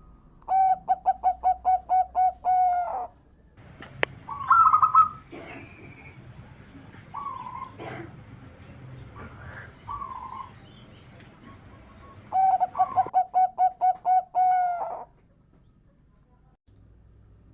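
Zebra dove (perkutut) cooing: two long song phrases of rapid, evenly repeated coos, about four to five a second, with shorter calls in between, the loudest about four seconds in.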